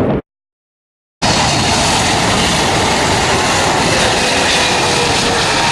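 Jet airliner engines passing close: a loud, steady rushing noise with faint whining tones that slowly fall in pitch. The sound drops out entirely for about a second near the start, then comes back at full level.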